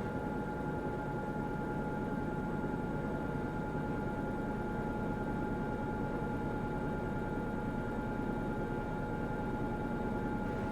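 LG washing machine running steadily, a low rumble with a constant high motor whine over it.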